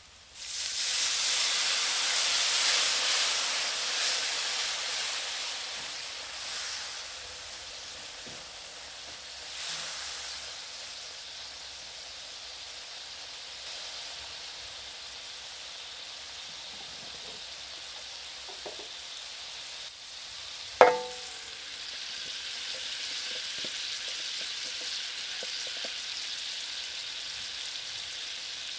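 Water poured onto a hot fried onion and spice paste in a stainless steel wok: a sudden loud sizzle that dies down over several seconds into a steady low sizzle. About twenty seconds in comes a single sharp metallic clink with a brief ring.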